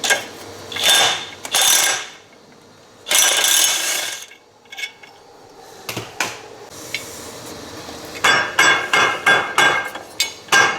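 Hand tools on the steel secondary clutch bolt: a few rattling, scraping metal bursts, then from about eight seconds in a fast run of ratchet clicks, about four to five a second, as a ratchet wrench works the 15 mm bolt.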